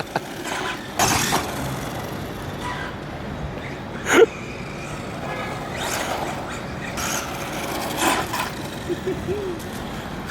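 Street background noise with traffic, broken by a few short knocks, the sharpest about four seconds in.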